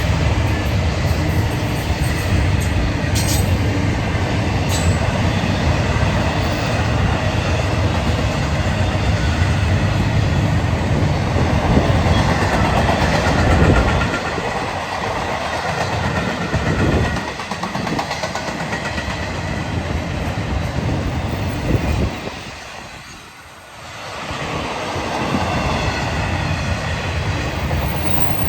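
Train cars rolling past at close range, steel wheels running on the rails with a steady heavy rumble. About 23 seconds in the noise dips briefly, then picks up again.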